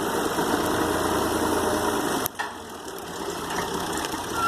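Tractor engine running steadily; about halfway through the sound drops suddenly to a quieter engine hum, which slowly builds again near the end.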